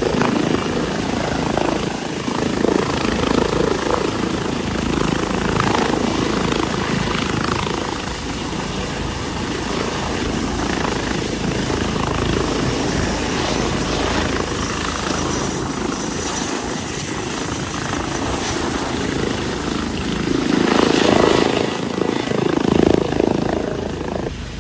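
Air-ambulance helicopter running on the ground, its rotor and turbine making a loud, steady noise as it readies for takeoff, swelling louder near the end.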